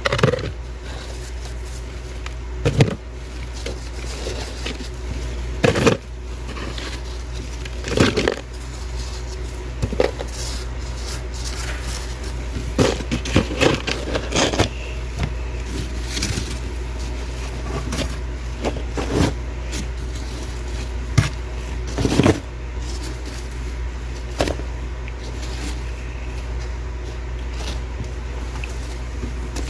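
Thick, powdery freezer frost crunching and cracking in short sharp bursts every couple of seconds, some in quick runs, over a steady low hum.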